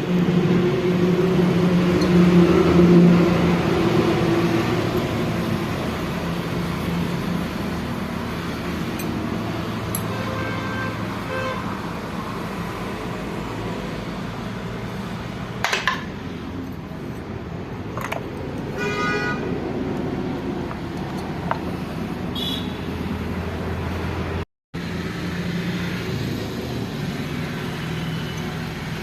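A vehicle engine running steadily, with a few sharp clicks and a brief horn-like tone around the middle.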